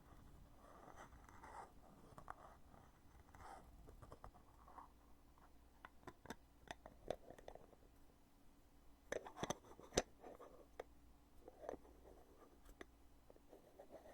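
Heavy lid of a foundation container being handled, opened and closed close to the microphone: faint scraping, then several sharp clicks, clustered about nine to ten seconds in.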